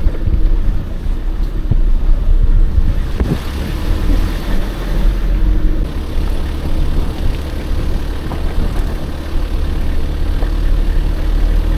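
Truck driving over a rough, bumpy road: steady engine and road rumble, with a few brief knocks in the first few seconds.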